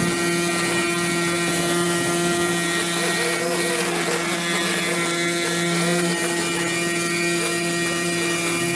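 A small engine running steadily, its drone holding one pitch under a steady hiss, rising slightly in pitch near the end.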